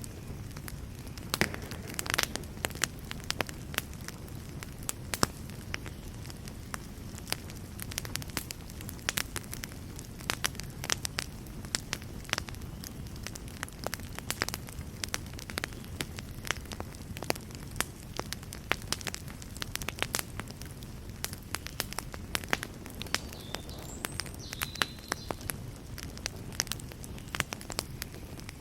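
Wood fire burning in a fireplace, crackling and popping irregularly over a steady low rumble of flame.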